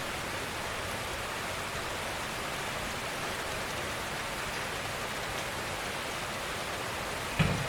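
Steady gentle rain, an even hiss of many drops falling on a surface, with a single dull thump near the end.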